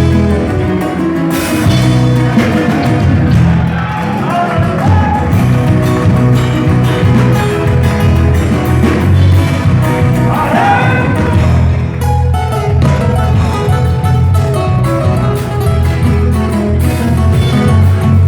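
Guitars playing a gato cuyano, the folk dance music of Argentina's Cuyo region, with short bending vocal phrases about four and ten seconds in.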